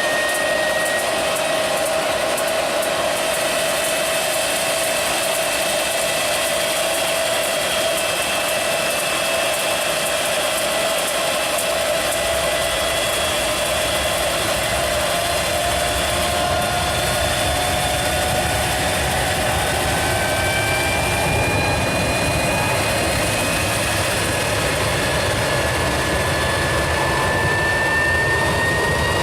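Jet engine running with a steady rush of exhaust and a whine that slowly climbs in pitch; a deeper rumble builds in about twelve seconds in.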